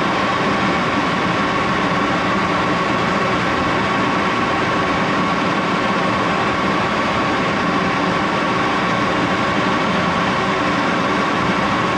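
Axelson engine lathe running steadily with the spindle at about 1127 rpm, the headstock giving a constant high whine over its running noise.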